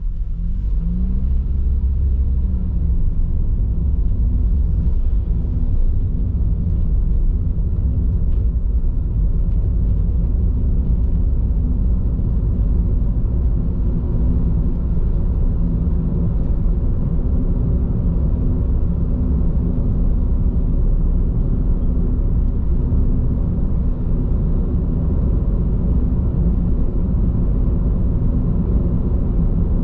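Steady low road rumble of a car's tyres on the road, heard from inside the moving car's cabin, with a brief rising engine note about a second in as the car speeds up.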